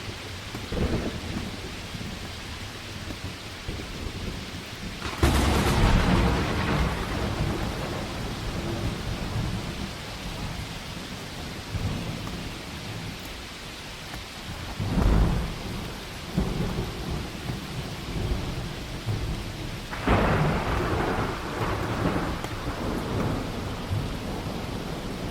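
Heavy rain falling steadily, with thunder rumbling over it; the loudest peals come about five seconds in, at about fifteen seconds, and again at about twenty seconds.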